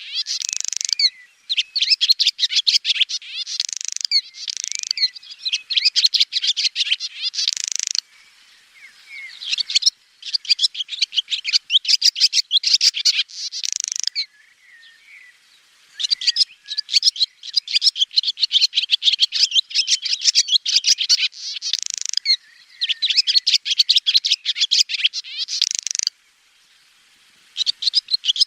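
Swallow twittering and chirping: rapid runs of high chirps and trills lasting a few seconds each, broken by short pauses.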